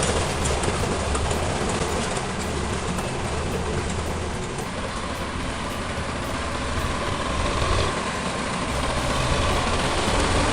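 Heavy machinery engine running steadily, a low drone under a broad rumble.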